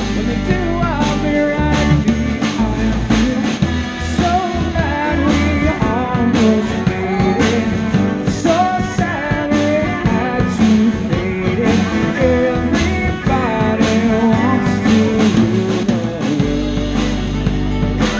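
A band playing a pop-rock song: a lead singer over guitar, bass and a steady drum beat.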